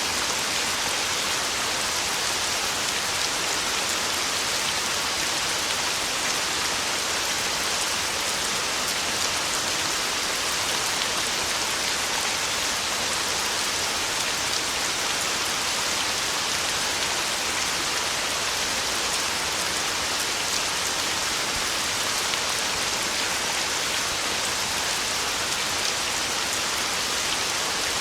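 Torrential rain on a tin roof, a dense, steady hiss that does not let up.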